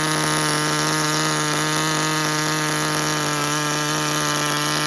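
Tamiya TGS-R nitro RC car's small two-stroke glow engine running steadily at a high, unchanging pitch. The owner finds the idle still too fast and the mixture too lean, needing a richer setting.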